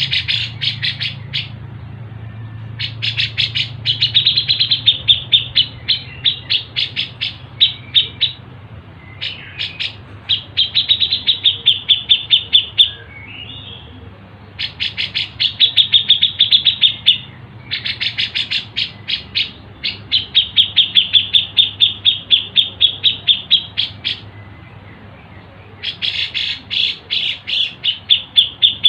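Songbird song: runs of quick, repeated high chirps, each run lasting a few seconds, with short pauses between runs.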